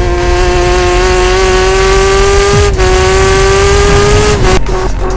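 Kawasaki ZX-10R inline-four superbike engine through an Akrapovič titanium exhaust, held at high revs under hard acceleration, its pitch slowly climbing. About two and a half seconds in it breaks briefly and drops a little in pitch, then climbs again until it is cut off about four and a half seconds in.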